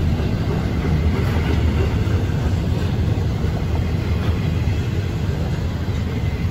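Florida East Coast Railway intermodal freight train rolling past, a steady low rumble.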